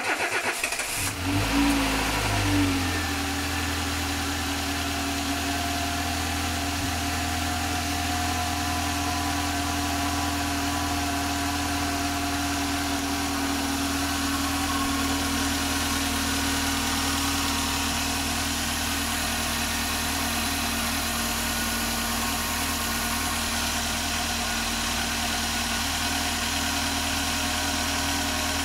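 Dacia's Renault four-cylinder engine starting for the first time: it fires, the revs flare unevenly for the first couple of seconds, then it settles into a steady idle.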